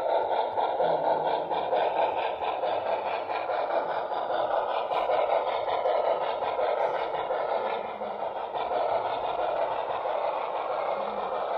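HO-scale model train running on the layout, giving a steady mechanical hum.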